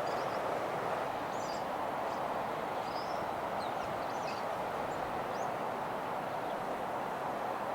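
Scattered short, faint, high-pitched wild bird chirps and whistles over a steady background rush.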